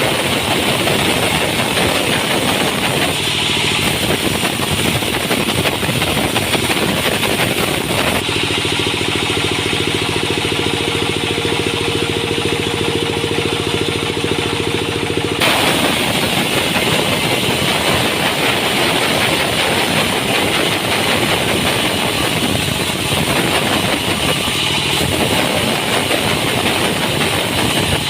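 Sawmill machinery running loud and steady. For several seconds in the middle, a steady engine-like hum with a clear pitch comes through, then the dense noise returns.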